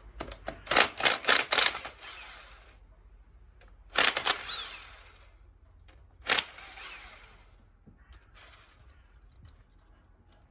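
Metal hand tools clicking and clinking as a Whitworth socket and its adapter are handled: a quick run of light clicks, then two sharper metallic knocks, each with a brief ring, about four and six seconds in.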